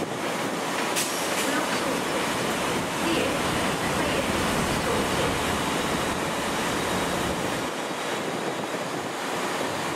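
A Class 769 multiple unit running at the platform: a steady low rumble over an even hiss, with a sharp click about a second in, and the rumble dropping away near the end.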